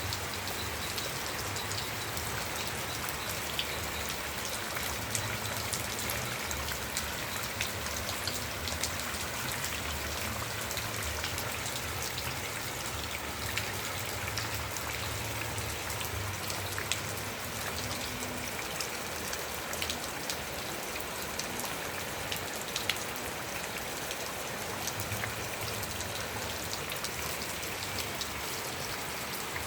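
Steady rain falling on a surface, a constant hiss with many separate drops ticking.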